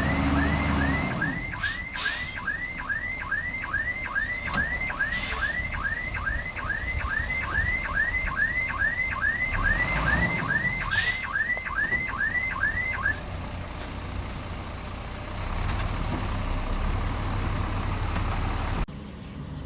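A truck's reversing alarm chirping a little over twice a second, each chirp a quick upward sweep, over a diesel engine running. The chirping stops about two-thirds of the way through while the engine carries on.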